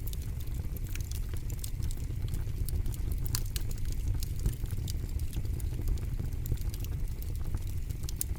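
Campfire burning with steady crackling: frequent sharp pops and snaps over a low rumble of flames.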